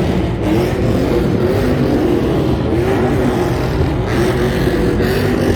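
Loud car engine revved over and over, its pitch rising and falling again and again.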